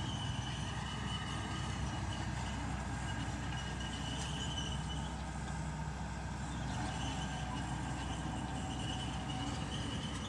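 Mitsubishi BD2G crawler bulldozer's diesel engine running steadily, with a thin high squeal that comes and goes over it.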